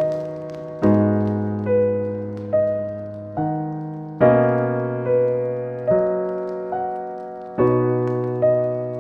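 Slow, gentle piano music: soft chords and single notes struck about once a second, each ringing and fading before the next.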